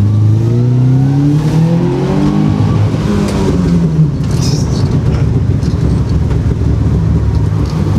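Subaru Impreza's EJ20 flat-four boxer engine heard from inside the stripped cabin, pulling up through the revs for the first two and a half seconds, then easing off into a rougher, noisier running sound for the rest.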